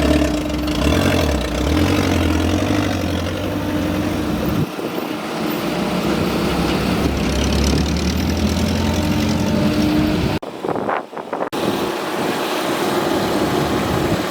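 Excavator's diesel engine running steadily, with a deep, even hum and mechanical noise over it. The sound drops out abruptly for about a second some two-thirds of the way in, then comes back rougher.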